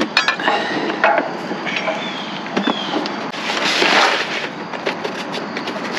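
Rummaging in a dumpster: scattered knocks and clatters as things are shifted about, with a longer rustling scrape about three and a half to four seconds in.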